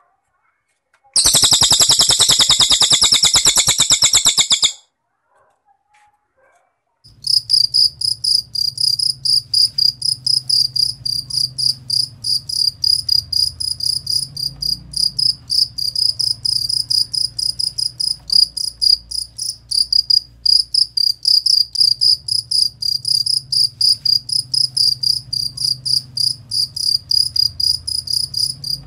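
A cililin bird gives one fast, very high trill lasting about three and a half seconds. A few seconds later a cricket starts chirping steadily, about four high chirps a second, over a faint low hum.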